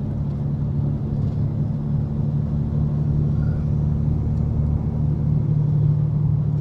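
Semi-truck diesel engine and road noise droning steadily inside the cab while driving at a constant speed, a low even hum that grows slightly louder toward the end.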